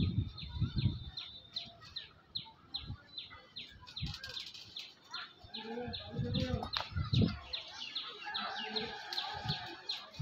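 A bird calling in a steady series of short, high, down-slurred chirps, about three a second.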